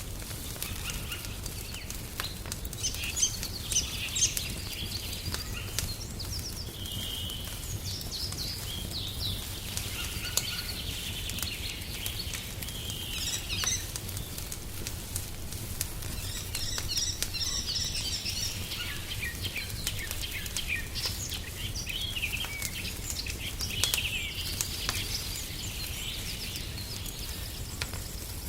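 Wood fire crackling with scattered sharp pops, layered under the chirping of several small birds in repeated bursts of song. A low steady rumble runs underneath.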